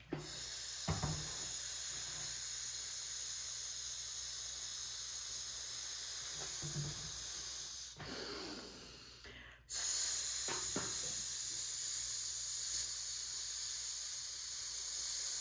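A person making a long, drawn-out 'shhh' sound, held for about eight seconds, then a short pause for breath, then another long 'shhh' to the end. This is the SH sound practised as a speech exercise.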